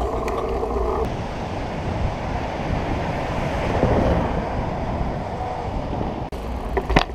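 Wind rushing over the microphone of a camera carried on a moving bicycle: a steady, rough rushing noise.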